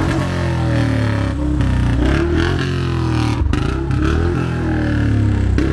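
Royal Enfield Bullet's single-cylinder engine revved in repeated throttle blips, the exhaust note rising and falling several times through its silencer.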